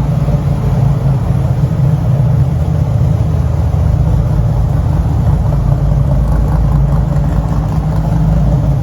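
Car engine running steadily, loud and low-pitched, with no rises or falls in pitch.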